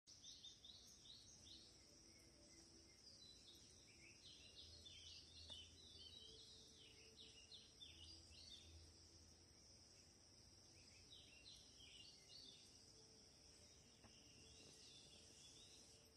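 Near silence: faint bird chirps in scattered quick clusters over a steady high-pitched hiss.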